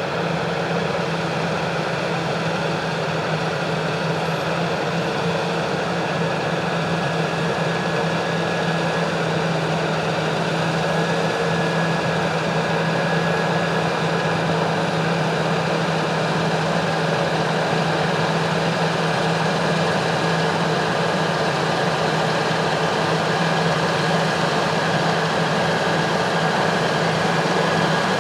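Heavy farm harvest machinery running steadily, a constant engine and machine noise with a strong low hum that does not change in speed.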